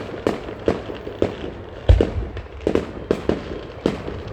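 Aerial fireworks bursting overhead: a quick string of sharp bangs, about two or three a second, with one heavier, deeper boom about two seconds in.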